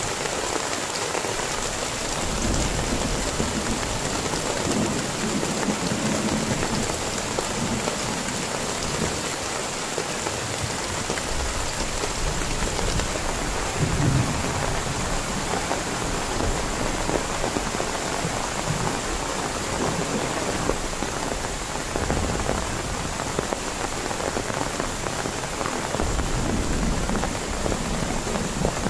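Heavy rain falling steadily, with low rumbles of thunder now and then, the strongest about halfway through.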